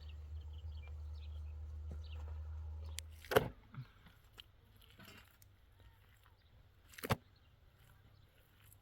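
Two sharp knocks about three and a half seconds apart, the first the loudest. A low rumble stops just as the first knock lands.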